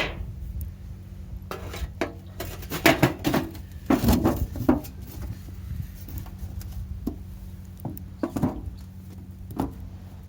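Metal camp cookware being handled: irregular clinks and knocks of a pot and utensils, busiest a few seconds in and sparser towards the end.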